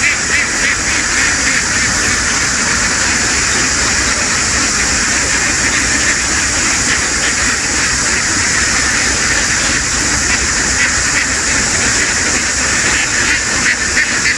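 A very large flock of ducks calling all at once, a dense steady din in which single quacks stand out only near the start and again near the end.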